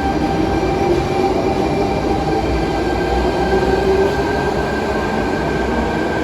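Sydney Trains electric suburban train running, a steady loud rumble with a constant whine of several high tones held throughout.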